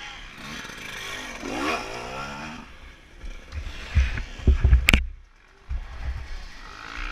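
Dirt bike engine revving, its pitch dipping and rising again, followed by a few heavy thumps and a sharp clack about five seconds in.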